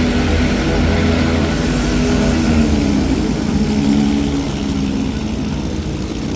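Johnson 20 hp outboard motor running steadily with the boat under way, its pitch wavering slightly.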